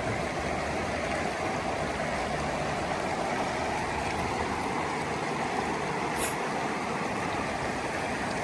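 Rain-swollen river rushing past in a steady, even noise that cuts off suddenly at the end.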